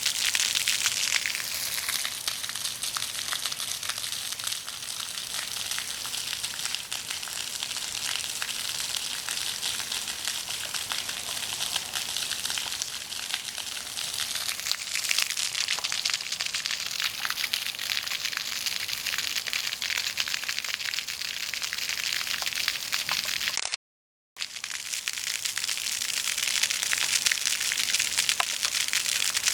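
Floodwater rushing, a steady hiss of moving water with a fine crackle. The sound cuts out for a moment about 24 seconds in.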